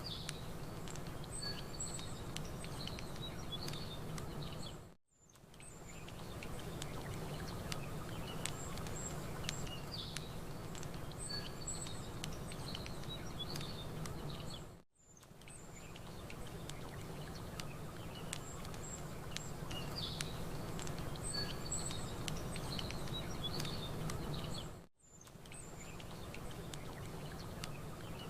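Campfire crackling over a steady wash of lake water, with small birds chirping high and intermittently. The whole bed dips out briefly about every ten seconds, three times, where the ambience loop restarts.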